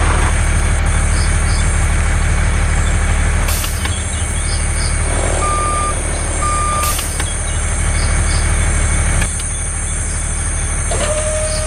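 Vehicle engine running with a steady low rumble, with two short beeps like a reversing alarm in the middle; the rumble drops away about nine seconds in, and a steady higher tone starts near the end.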